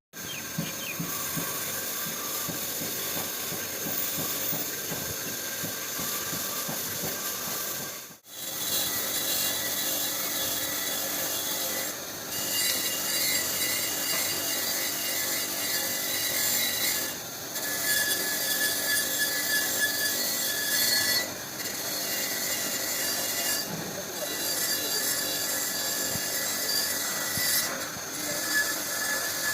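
Steady abrasive scraping, as in rubbing or brushing a hard part clean, running in several long stretches with brief breaks.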